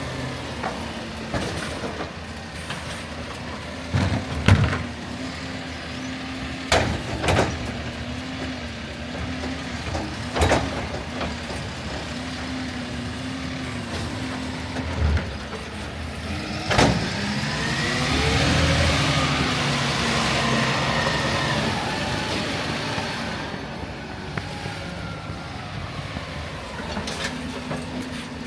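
Garbage truck engine idling, with a series of sharp clangs and knocks. The engine then speeds up for several seconds with a rising and falling whine, and drops back to idle.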